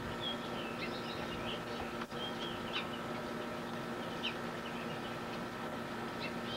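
Small songbirds chirping: short, high chirps and twitters come every fraction of a second to a second, over a steady background hum.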